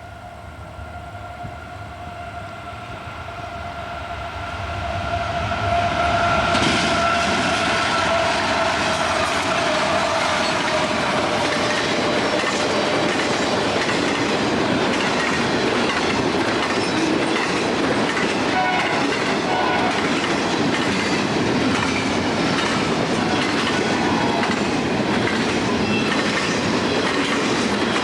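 A train approaches with its horn held on a steady chord that dips slightly in pitch as it nears, growing louder. Then it passes close, its wheels clattering steadily over the rail joints as the cars roll by.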